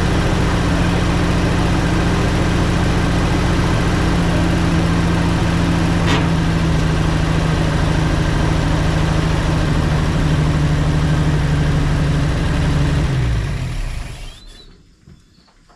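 1961 Chevy Viking 60 truck engine running at a steady idle, with a single click about six seconds in; near the end the engine slows and stops.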